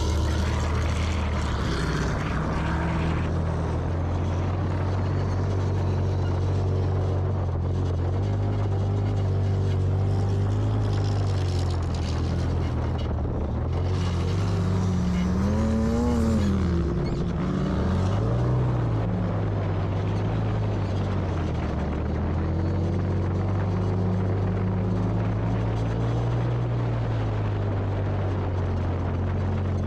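Off-road vehicle engines from a sand car, dirt bike and side-by-side convoy running steadily on the move. About halfway through, one engine's pitch climbs and drops back, and there is a smaller rise and fall a few seconds later.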